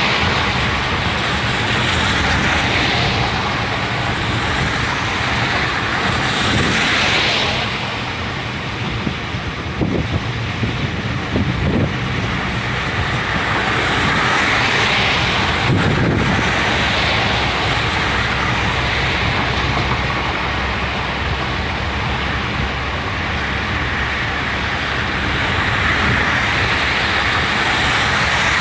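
Steady road and wind noise of a car driving at speed, swelling and easing every several seconds.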